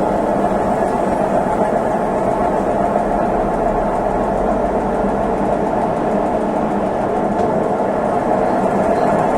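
Consul Facilite 11 kg top-loading washing machine running mid-cycle: a steady mechanical whir with a constant low hum, no pauses or changes.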